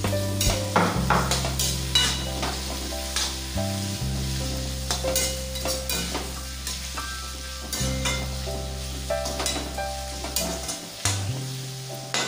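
Chopped onions, tomatoes and green chillies sizzling in oil in a metal kadai while a perforated metal skimmer ladle stirs them, scraping and clinking against the pan many times. Steady low background music notes run underneath.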